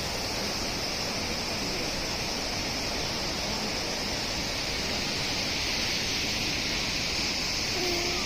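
Kegon Falls waterfall rushing steadily: a constant, even noise of falling water.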